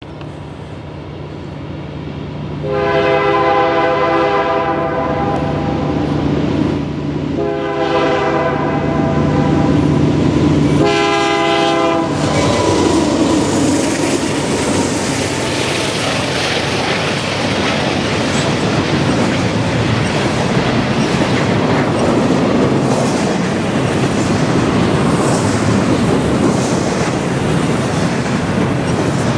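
GE diesel freight locomotives approach, sounding the horn for a grade crossing: two long blasts and a short one, starting about three seconds in. The locomotives pass at about twelve seconds, the horn's pitch dropping as they go by. Then the double-stack container cars roll past with a steady rumble of wheels on the rails.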